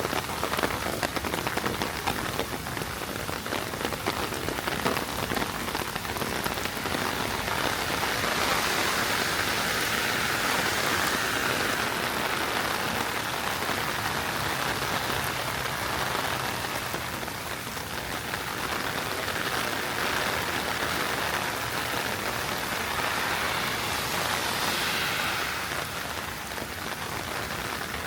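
Heavy rain falling and splashing on surfaces in a dense, steady hiss of drops. It grows louder twice for several seconds at a time.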